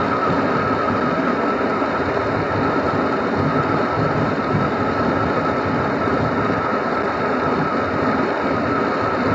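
Car driving on a road: steady tyre and road noise with the engine underneath, heard from inside the cabin, with a steady high hum on top.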